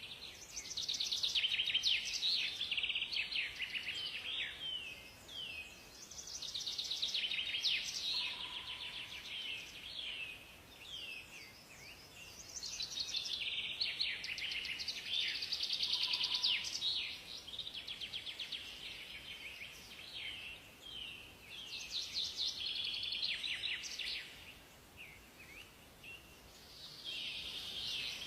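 Songbirds singing in repeated bursts of quick chirps and trills, a new phrase every five or six seconds, over a faint steady hiss.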